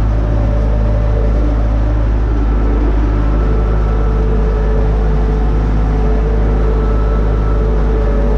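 UTB Universal 650 tractor's diesel engine running at a steady, even drone with a strong low hum.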